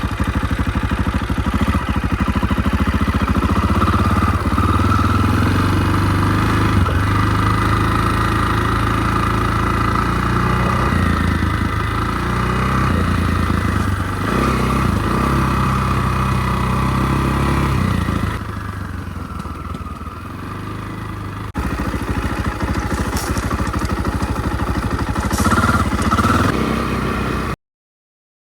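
KTM 525 dirt bike's single-cylinder four-stroke engine running while ridden, its note rising and falling with the throttle. It eases off to a quieter stretch about two-thirds of the way through, picks up again, then cuts off suddenly near the end.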